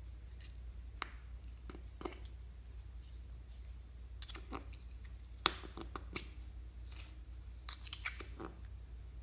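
Slime being handled by hand, giving irregular small sticky clicks and crackles that come in short clusters.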